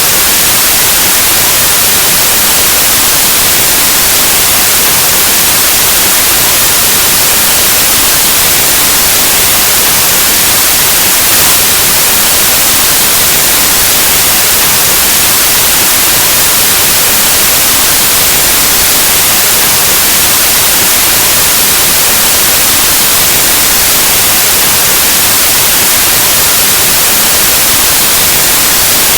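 Loud, steady white noise: an even static hiss across the whole range, with nothing changing in it.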